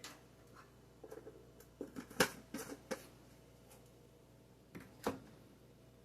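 Light clicks and taps of kitchen utensils and containers being handled while bouillon powder is measured into a pot. The sharpest tap comes about two seconds in, and another comes near five seconds.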